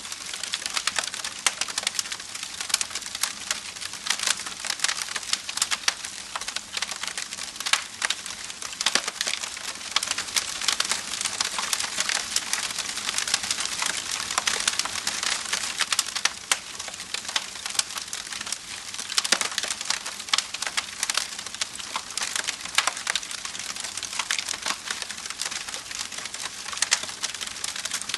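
Wood fire crackling: a dense run of small pops and snaps over a soft hiss, with a few louder snaps now and then.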